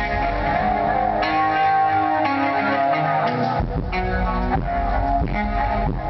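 Band playing at a sound check: sustained electric guitar notes over bass, with the low bass dropping out for a moment midway.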